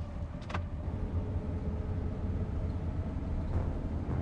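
Car running, a steady low rumble of engine and road noise, with one short sharp sound about half a second in.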